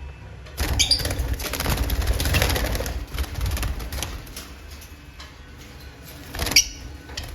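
Lovebirds flapping their wings in a flurry of rapid wingbeats, with sharp high chirps at its start; a second short burst of flapping and a chirp comes near the end.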